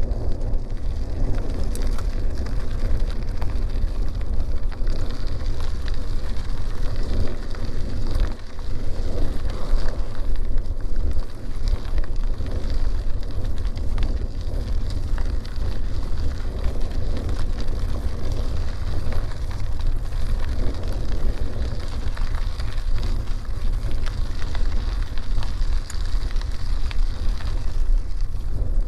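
Wind buffeting the microphone of a bicycle-mounted camera while riding, with the bike's tyres crackling steadily over a dirt road and occasional small clicks from grit.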